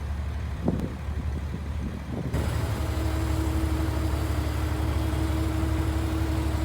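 Heavy diesel earthmoving machinery running steadily, with a short knock early on. The sound gets suddenly louder about two seconds in and settles into a steady engine drone with a held hum.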